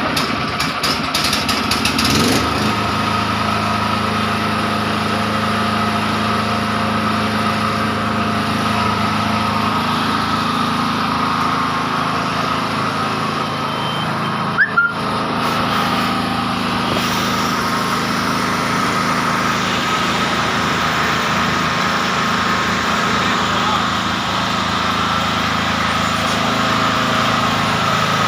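10 kVA portable generator's engine running steadily just after an electric start, its note settling about two seconds in. A brief sharp click about halfway through.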